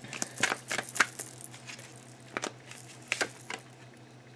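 Sharp clicks and light clinks of small objects being handled, several close together in the first second and a few more around two and a half to three and a half seconds in, over a steady low hum.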